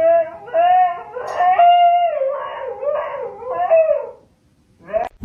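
A dog howling in a run of short, drawn-out yowls, each rising and falling in pitch, which stop about four seconds in.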